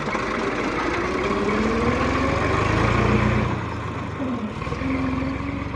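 Tractor engine running and revving up, its pitch rising over the first two seconds and loudest for a second or so before easing back down.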